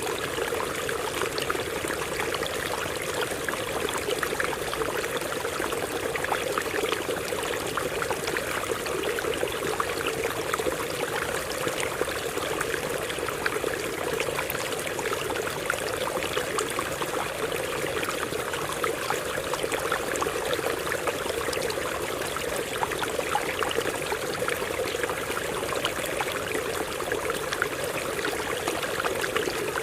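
Stream water running and splashing over rocks, a steady babbling rush with many small splashes.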